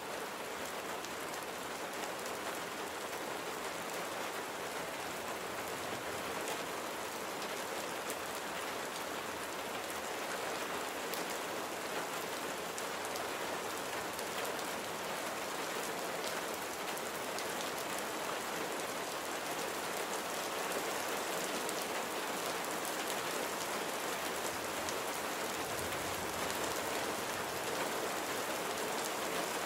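Steady rain falling, with individual drops ticking sharply through the even hiss, growing slightly heavier toward the end.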